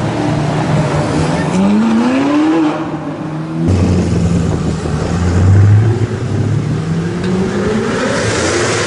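Supercar engine revving and accelerating, its note rising in pitch about two seconds in. After an abrupt change a lower engine note runs on, then rises again near the end.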